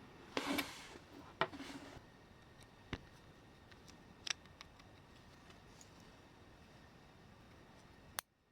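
Small parts and tools being handled during the disassembly of a Märklin 3029 model locomotive: brief scraping in the first two seconds, then a few separate sharp clicks, before the sound cuts off suddenly near the end.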